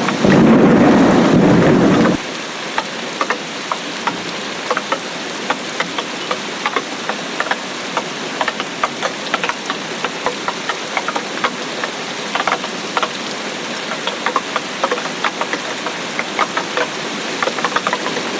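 Steady rain falling, with many separate drops ticking sharply on a hard surface. For about the first two seconds a louder, deeper rush of noise sits over it and then cuts off suddenly.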